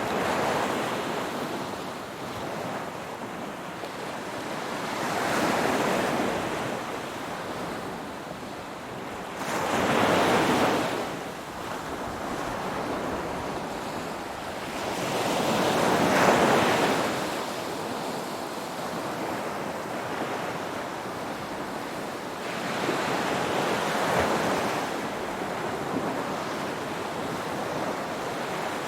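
Ocean waves breaking and washing ashore, swelling and fading in surges about every five to six seconds.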